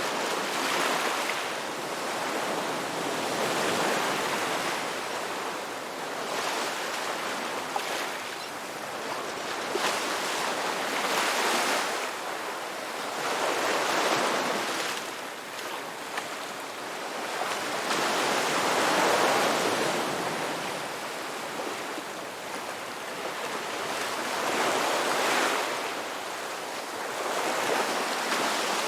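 Ocean surf washing onto a beach: a steady rush of water that swells and ebbs as each wave breaks and draws back, every three to five seconds.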